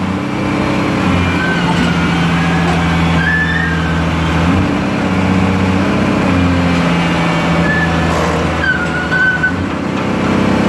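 Heavy diesel engine of a backhoe or truck running steadily, its pitch shifting slightly a couple of times. Thin high wavering whistles sound over it now and then.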